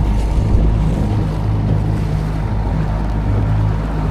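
Tohatsu outboard motor running steadily under way, its low drone holding an even pitch, with the rush of water and wind noise behind it.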